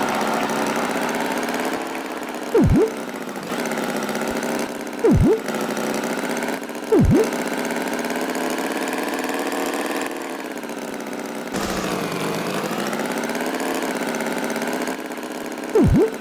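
Cartoon tractor engine running steadily, its pitch wavering slowly. Four times a short, louder sound effect swoops sharply down in pitch and straight back up.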